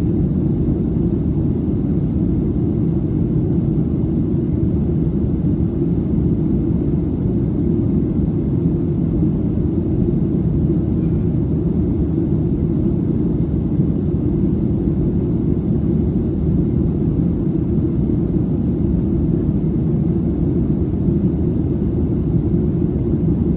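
Steady low rumble of cabin noise inside a Boeing 737-700 in flight: engine and airflow noise that holds constant throughout.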